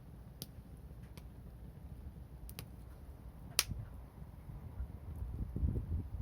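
Wood fire crackling with a few scattered sharp pops, the loudest about three and a half seconds in, over a low rumble that grows louder near the end.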